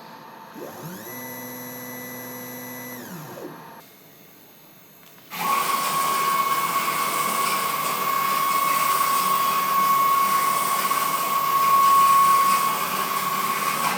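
Electric motor spinning up, running steadily for about three seconds and spinning down. After a short pause, a louder high-speed motor starts and runs steadily with a high whine.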